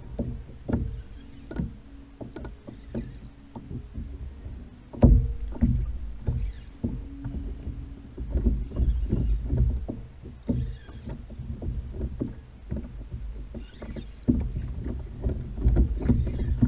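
Sounds of a Hobie kayak on the water: irregular knocks and bumps against the plastic hull over a low rumble, with one heavier thump about five seconds in.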